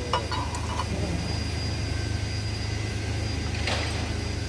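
Steady low mechanical drone of a running machine, with a few short metallic clinks near the start and one more about three and a half seconds in.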